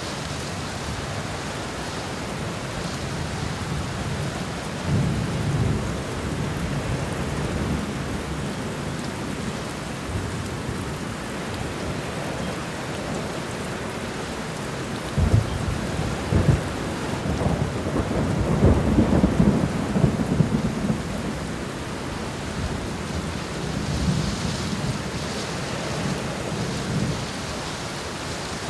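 Steady rain falling, with thunder rumbling: a low roll about five seconds in, then a louder, longer peal beginning with sharp cracks about halfway through.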